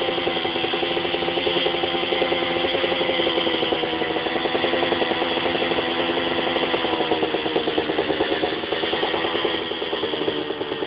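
125cc two-stroke dirt bike engine running at a steady idle, a fast even popping pulse, with a small dip and recovery in pitch about eight seconds in.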